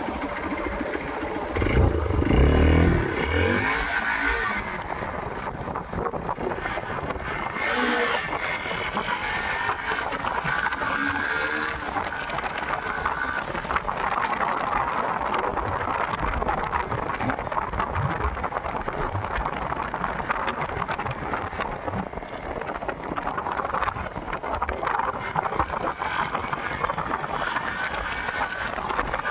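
Steady road and wind noise from a moving motorcycle, with a louder low rumble about two seconds in.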